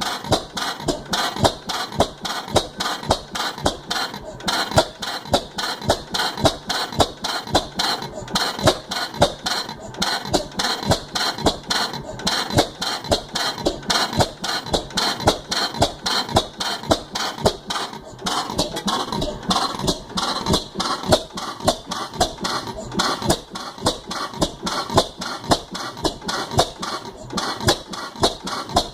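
15 HP Type A Joseph Reid gas engine running at slow speed, with a steady, even beat of firing knocks and mechanical clanks.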